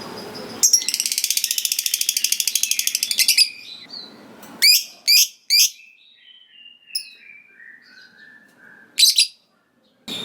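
Lovebird giving a long, rapid chattering trill (the 'ngekek panjang') lasting about three seconds, followed by a few sharp chirps, a string of softer notes stepping down in pitch, and one last chirp.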